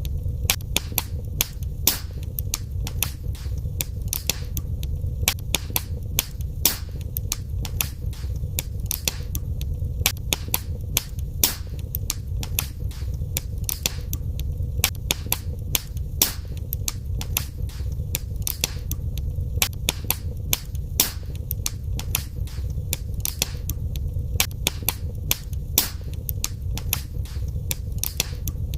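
Wood fire burning in a fireplace: dense, irregular crackling and popping, several sharp pops a second, over a steady low rumble of the flames.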